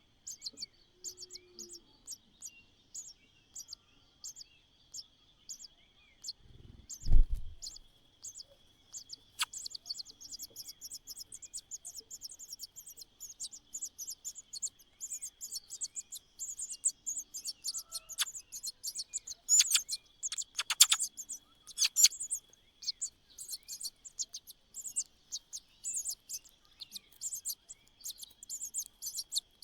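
Nestling birds begging with rapid, very short high-pitched chirps, growing denser and louder in the second half, over a faint steady high whine. A single low thump comes about seven seconds in and is the loudest sound.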